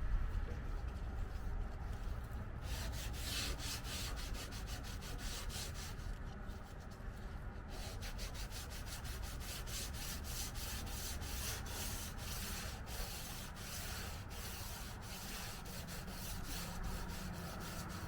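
Sandpaper rubbed by hand over a car body panel in quick back-and-forth strokes, stopping for a short pause around the middle.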